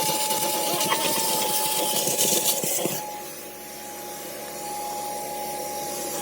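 Wet/dry shop vacuum running with a steady motor whine and a rush of sucked air; about three seconds in the airflow noise drops and then partly returns while the motor keeps its pitch.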